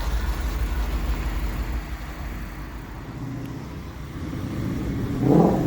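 A car engine running at low speed, getting louder near the end as it comes close, over a low rumble.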